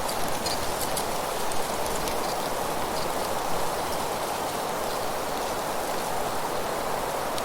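Steady rustling noise of wind blowing through trees and leaves, with a few faint, short, high chirps now and then.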